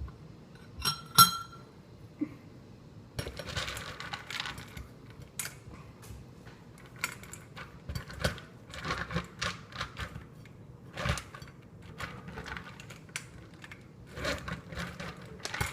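Dog food being handled in a dog bowl, giving many small clicks and clatters, with one sharp ringing clink about a second in.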